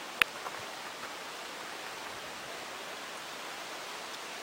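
Steady outdoor rushing noise, with one sharp click just after the start and a fainter tick shortly after.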